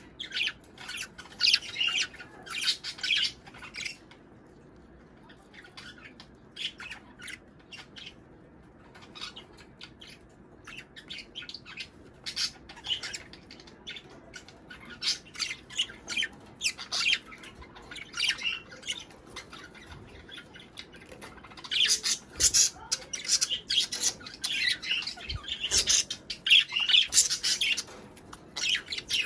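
Budgerigars chattering in quick, high chirps and squawks: the mating chatter of a group of budgies. The calls thin out a few seconds in and are busiest near the end.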